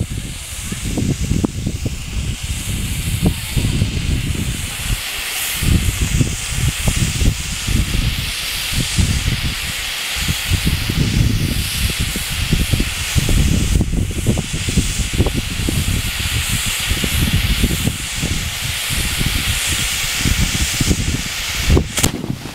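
Fireworks hissing steadily, with irregular low rumbling underneath and a sharp crack near the end.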